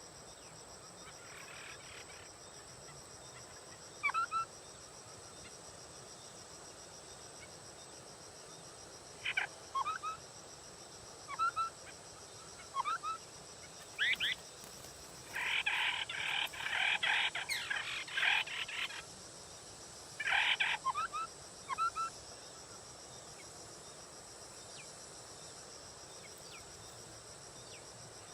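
Họa mi đất bird calling: scattered short sweeping calls, then a few seconds of rapid chattering calls a little past the middle, and a few more short calls after it. A steady high insect drone runs beneath.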